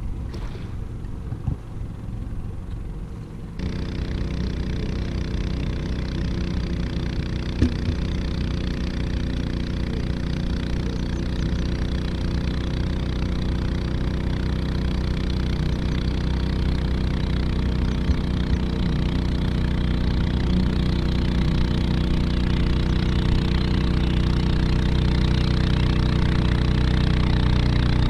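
Boat engine running steadily, cutting in about three and a half seconds in and growing gradually louder as the boat comes closer.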